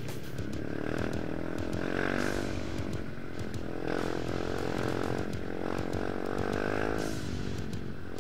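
Dirt bike engine revving, its pitch rising and falling several times as the throttle is opened and closed.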